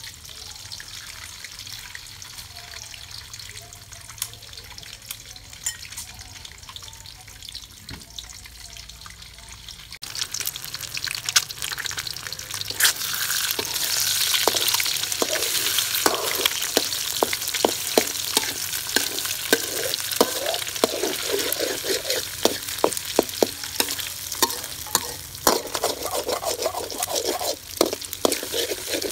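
Eggs frying in oil in a steel wok. For the first ten seconds or so there is a quieter sizzle; then the sizzling grows much louder, and a metal spatula scrapes and clicks against the wok as the eggs are stirred and broken up.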